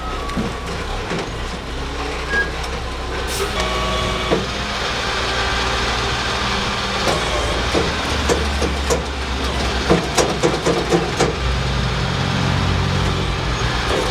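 Tow truck's engine running steadily under load, with a run of sharp knocks and clanks from about halfway through, densest near the end.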